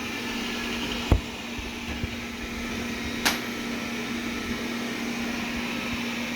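Wyze robot vacuum running with a steady motor hum, with a single knock about a second in and a sharp click a little after three seconds.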